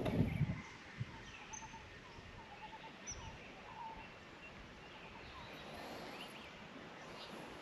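Faint bird calls over a quiet background: a run of short repeated chirps in the first few seconds, with a few higher, thinner notes among them. A brief rustling noise fades out just at the start.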